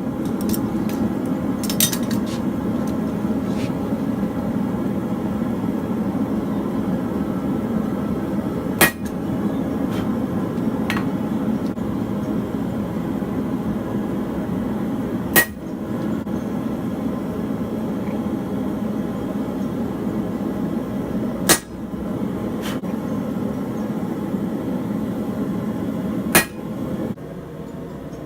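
Four sharp hammer blows on a steel stamp, several seconds apart, marking forged high-carbon (52100) steel knife blades, with a few lighter metal clinks between them. Under them runs a steady roar that cuts off near the end.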